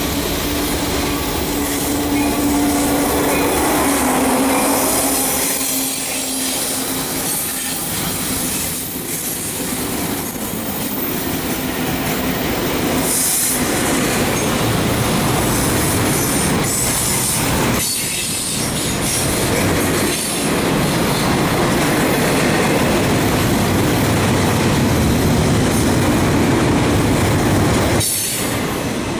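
Union Pacific double-stack intermodal freight train passing close by: the lead diesel locomotives go by in the first few seconds with a steady low engine drone, then the loaded container well cars run past with continuous wheel-on-rail noise.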